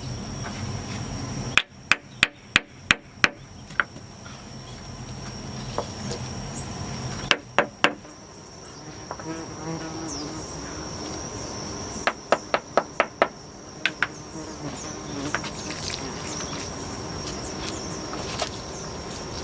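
Three bursts of sharp hammering strikes, about three blows a second, over a steady high-pitched insect drone.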